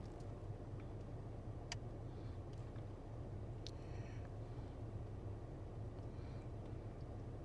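Faint outdoor ambience: a steady low rumble, with a few short, high bird chirps about two seconds in, near four seconds and again around six seconds.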